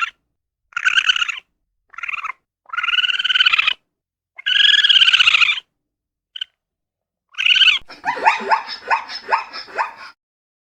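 A series of high-pitched animal cries, each lasting under a second to about a second with silent gaps between them, followed near the end by a rapid chattering run of short calls, about four a second.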